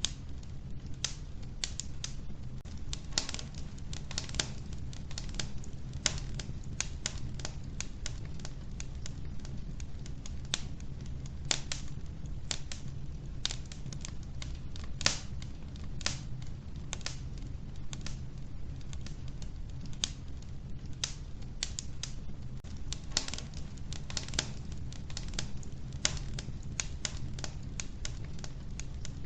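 Wood fire crackling in a wood-burning stove: irregular sharp snaps and pops over a steady low rumble of the flames, a few pops louder than the rest.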